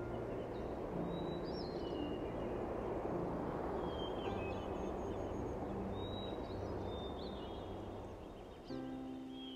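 Outdoor ambience: small birds chirping in short gliding calls several times over a steady rushing noise, with soft low tones underneath. Near the end, music with sustained pitched notes comes in.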